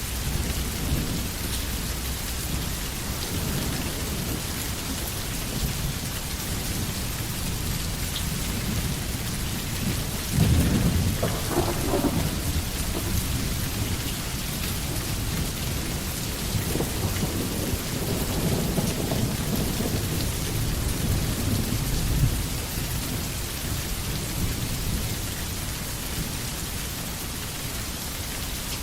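Steady forest rain falling, with thunder: a sudden louder clap about ten seconds in, then a longer low rumble past the middle.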